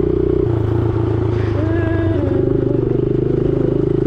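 Honda 70cc dirt bike's small single-cylinder four-stroke engine running under way, its note shifting about half a second in and then running on steadily.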